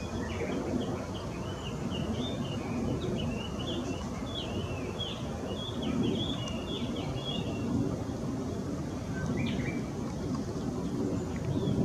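Strong wind on the microphone as a steady low rumble. Over it, a small bird twitters rapidly for about the first half, then gives a few scattered chirps.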